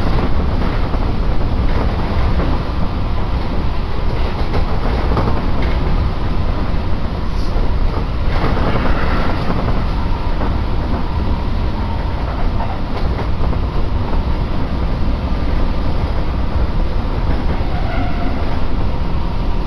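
Steady running noise heard inside a Tobu Isesaki Line electric train car under way: a low, even rumble of the wheels on the rails.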